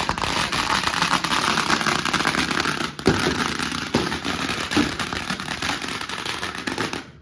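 Dense, rapid crackling of many small firecrackers going off at once, with a couple of sharper bangs about three and four seconds in; it cuts off abruptly just before the end.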